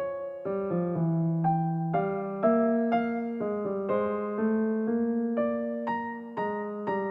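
Background music: soft electric piano playing a gentle melody of evenly paced notes.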